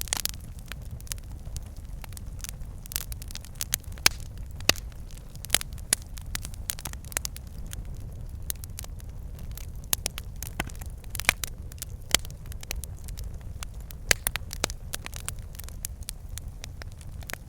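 Wood fire burning in a fireplace: a steady low rumble of flames with irregular crackles and pops from the logs, several sharper snaps standing out.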